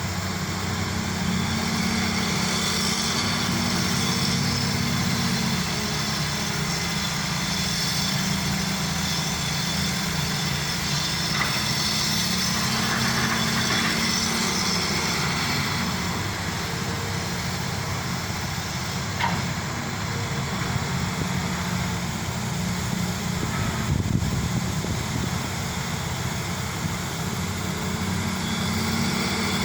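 Hydraulic excavator's diesel engine running steadily as the machine works, a continuous low drone with a couple of brief knocks.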